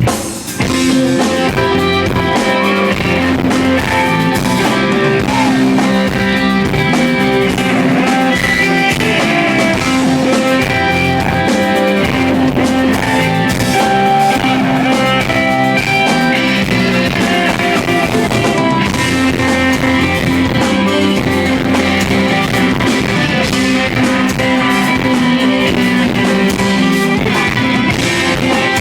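Live rock band playing, led by guitars over a drum kit.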